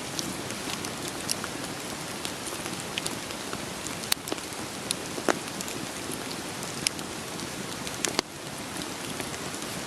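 Steady rain with the irregular sharp pops and snaps of a crackling wood fire, a few louder snaps standing out.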